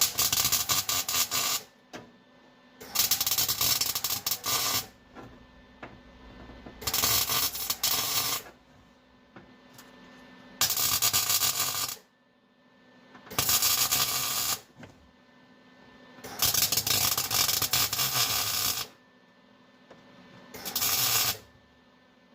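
Electric arc welder laying short welds on thin sheet-steel floor patch panels: about seven crackling bursts, each lasting one to two seconds, with brief pauses between them as the weld is stitched in.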